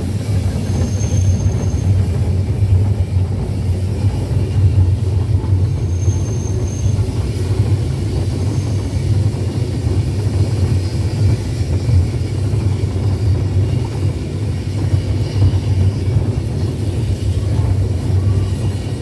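Steam railway train running along the track, heard from inside an open carriage: a steady, loud low rumble from the wheels and rails, with two faint brief high squeals about a second in and around six seconds in.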